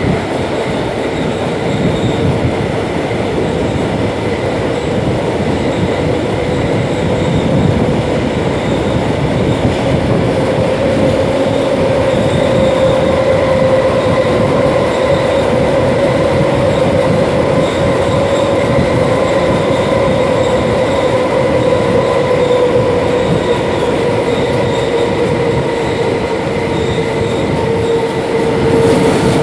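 Interior of a class 472 S-Bahn electric multiple unit running along the line: steady, loud rolling noise with a droning tone that rises a little and sinks back.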